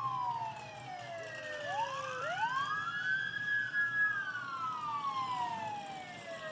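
Two police car sirens wailing slightly out of step. Each falls slowly in pitch, then about two seconds in climbs back up quickly, holds high and starts falling again.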